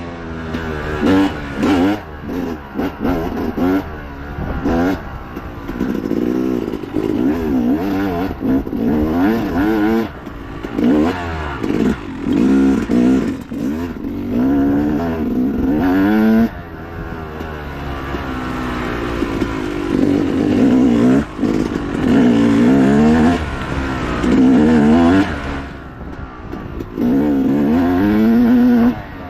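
Dirt bike engine racing over rough ground, its pitch rising and dropping over and over as the throttle is opened and chopped.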